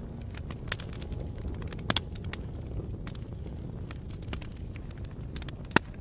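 Wood fire crackling: scattered sharp pops and snaps over a steady low rumble, with the loudest pops about two seconds in and just before the end.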